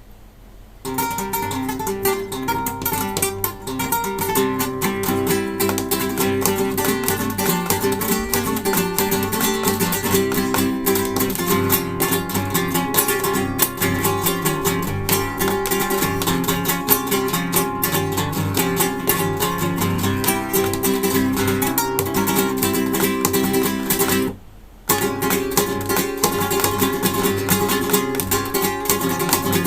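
Acoustic guitar played solo: a lively piece with rapid strokes, starting about a second in and breaking off for half a second near the end before going on.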